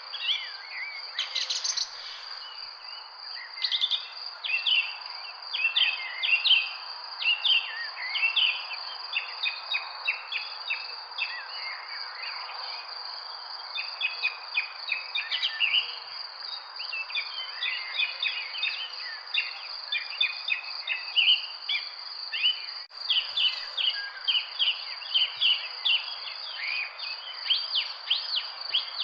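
A chorus of many birds chirping in quick, overlapping calls, over a steady high-pitched insect drone and a constant hiss of background noise.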